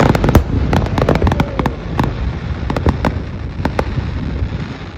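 Fireworks bursting: a dense run of sharp cracks and bangs over a low rumble, thinning out toward the end.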